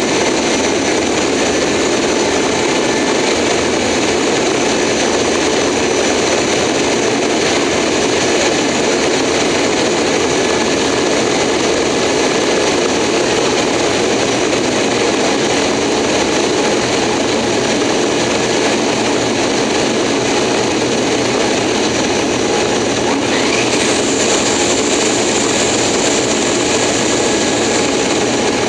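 Steady loud roar of rushing air and jet engine noise from a Boeing 747, heard from inside its landing-gear bay. About three quarters of the way through, a brief faint rising whine sounds and the high hiss brightens.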